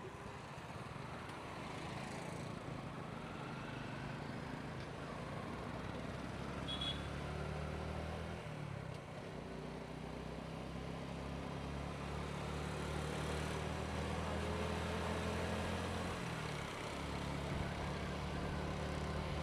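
Motorcycle engine running while riding, over road noise. Its engine note changes about eight seconds in and again near the end.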